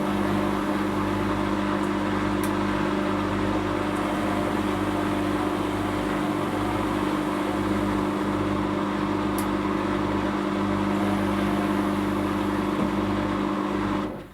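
Whirlpool Indiana 1400 front-loading washing machine running its spin cycle: a loud, steady motor whine and drum rumble that cuts off abruptly near the end.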